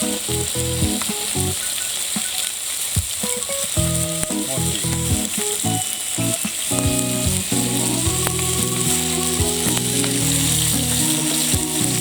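Food sizzling on an iron griddle plate: a steady frying hiss. Held low notes change in steps underneath, like a melody.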